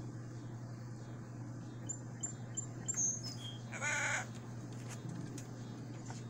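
Pet parrot calls: four quick high chirps about two seconds in, a short falling whistle, then a louder half-second call about four seconds in, over a steady low hum.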